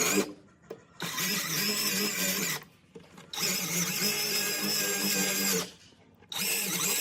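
Electric power tool motor running in bursts of about one and a half to two and a half seconds, stopping and starting again three times.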